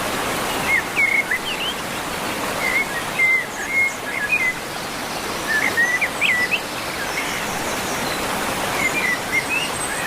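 Small birds chirping in short clusters of quick rising and falling notes, several times, over a steady background hiss.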